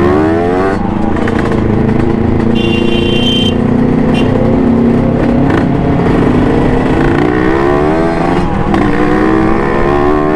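Kawasaki Ninja RR motorcycle's two-stroke single, heard from the rider's seat, climbs in pitch as it revs up in the first second, runs steadily through the middle, and rises again over the last few seconds as the bike accelerates. A brief high tone sounds about two and a half seconds in.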